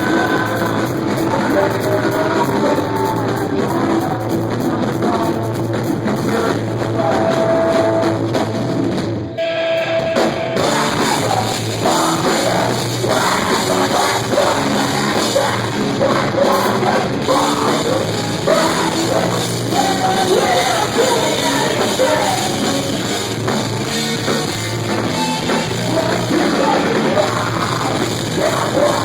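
Post-hardcore band playing live: loud distorted guitars, a pounding drum kit and sung vocals, with a short break in the music about a third of the way in before the band comes back in.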